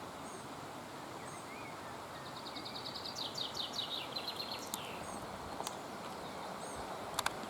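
A small songbird sings one phrase: a rapid run of repeated high notes that steps down in pitch and ends in a short flourish, lasting about two and a half seconds, over a steady outdoor hiss. A couple of sharp clicks come near the end.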